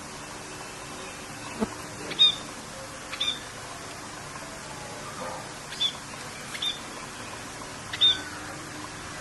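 Rain falling steadily, with a bird giving short calls over it, each a quick sweep down into a high note, about five times. There is also one sharp click a little under two seconds in.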